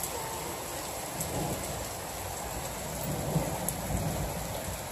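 Steady rain falling on pavement and lawn during a thunderstorm, with a low rumble of thunder underneath.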